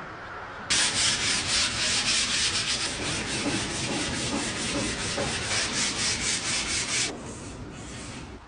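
Sanding: a fast, steady abrasive rubbing that starts suddenly about a second in and stops suddenly near the end.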